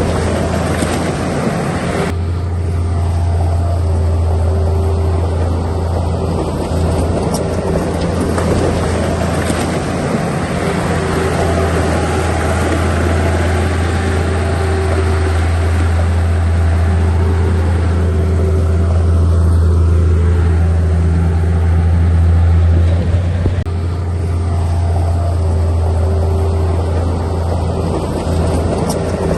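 Heavy diesel engine of earthmoving machinery running continuously under work, a deep steady drone that grows stronger about two seconds in and shifts briefly about four-fifths of the way through.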